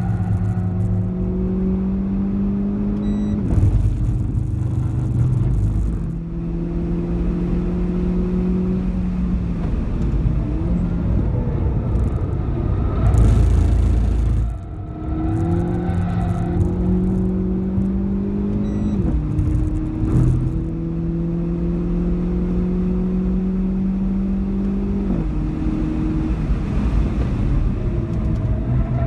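Renault Clio 4 RS's 1.6-litre turbocharged four-cylinder engine pulling hard on track, heard from inside the cabin: the engine note climbs steadily and drops abruptly at each gear change, several times. A louder, rougher rumble comes around the middle.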